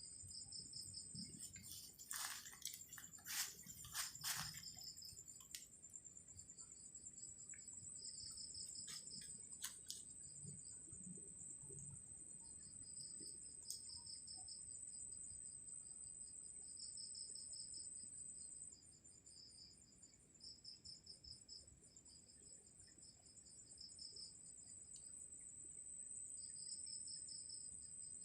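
Insects trilling: one steady high-pitched trill throughout, with a second, lower trill coming in short repeated bursts. A few sharp clicks or knocks sound about two to four seconds in, and again briefly near ten seconds.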